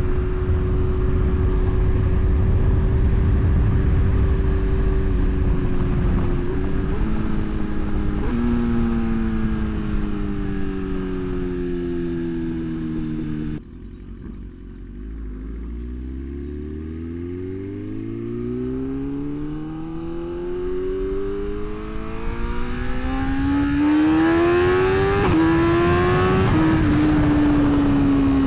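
BMW S1000RR inline-four sport bike engine heard from the rider's seat: steady cruise, then slowing with the revs falling and two downshifts, a sudden drop in level about halfway through, then a long rise in engine pitch as it accelerates, with gear changes near the end.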